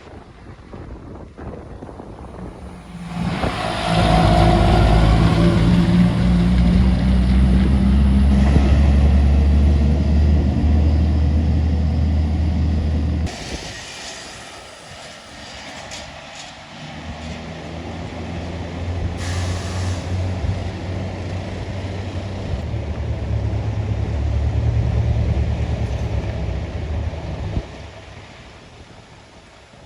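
Heavy diesel trucks passing on a steep hill, one after another, their engines running loud and low. The first stops abruptly about halfway through. A second builds up and fades near the end, with short hisses of air in between.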